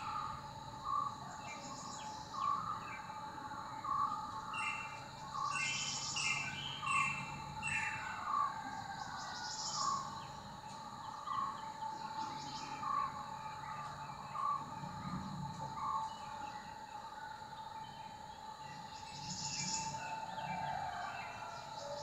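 Small birds calling: one repeats a short note about once a second, with scattered higher chirps and twitters, over a faint steady tone.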